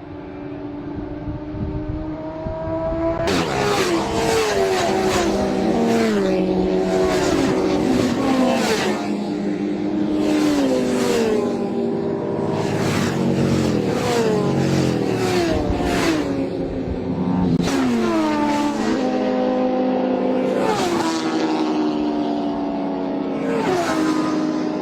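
Sport motorcycles lapping a race track, one after another, engines revving high and dropping in pitch in repeated steps as they shift through the gears.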